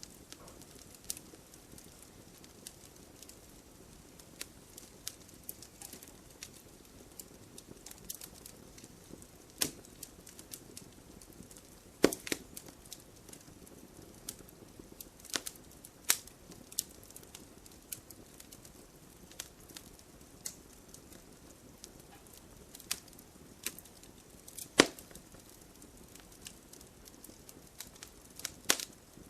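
Wood campfire burning with a soft steady hiss and irregular sharp crackles and pops, the loudest pops about twelve seconds in and near twenty-five seconds.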